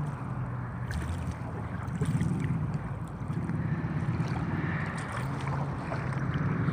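Wind buffeting the microphone, a steady low rumble with faint ticks over it.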